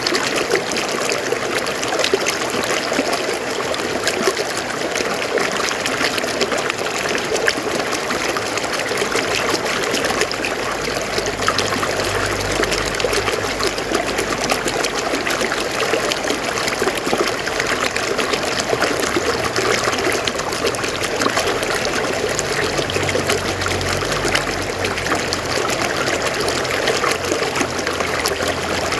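River water flowing over rocks, a steady, continuous splashing and trickling.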